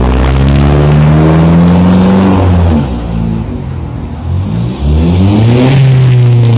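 2000 Pontiac Sunfire GT's 2.4-litre four-cylinder with a straight-pipe exhaust, revved up and held, dropping back near the middle, then revved up again about five seconds in.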